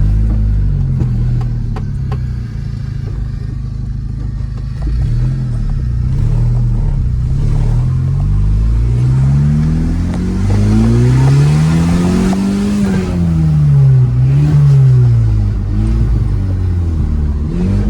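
Manual-transmission car's engine under way. Its pitch holds low at first, then climbs steadily to a peak about twelve seconds in and drops away. A few shorter rises and falls follow, as the revs come up and come off again.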